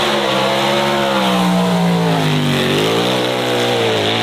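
Engine of a car at speed, loud and steady, its pitch sagging slowly, then dipping and climbing again twice as it changes gear and accelerates.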